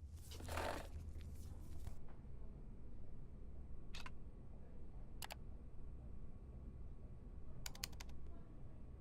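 Quiet, sparse clicks and taps over a low room hum: a short rustle at the start, a few scattered clicks, single clicks about four and five seconds in, and a quick run of clicks near the end.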